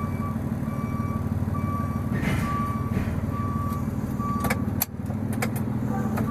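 Delivery truck's backup alarm beeping in even, repeated pulses over the steady drone of its running engine as the truck reverses. A few sharp clicks come a little after halfway.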